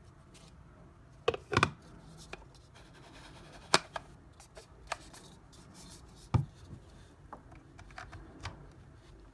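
Small objects being handled: scattered clicks, taps and light rustling. The loudest is a quick cluster of knocks about a second and a half in, with single sharp clicks near the middle and again after six seconds.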